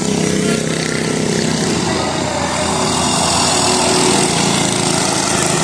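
Small mini bike engines running hard in a race, a steady engine drone whose pitch shifts slightly as the bikes move.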